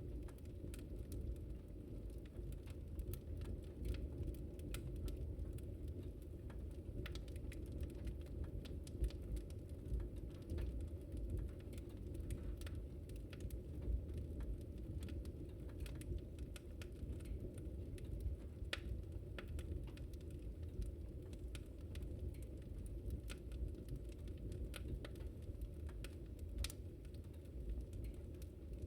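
Open wood fire burning: a steady low rumble with frequent small, irregular crackles and pops of the burning wood.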